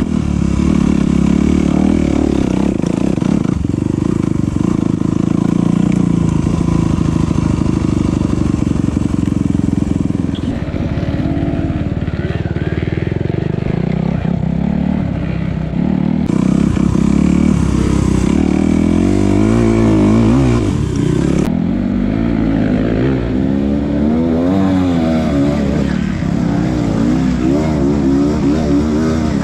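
Enduro dirt bike engine running hard, its revs rising and falling over and over with the throttle.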